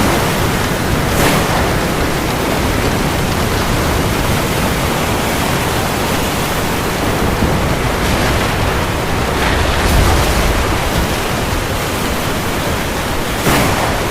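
Steady heavy rain falling on the sea, a dense even hiss, with brief swells of louder noise a few times.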